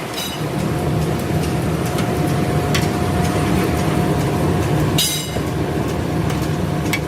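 Leaf-spring factory machinery running with a steady hum and low rumble, and scattered short metal clicks. About five seconds in there is a sharper metal clank, and the hum's steady tone stops at that point.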